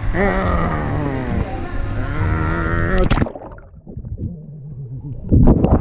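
A person's long, drawn-out vocal call with a wavering pitch, held for about three seconds and then cut off suddenly. After it the sound turns muffled, with low knocks and louder jostling noise near the end.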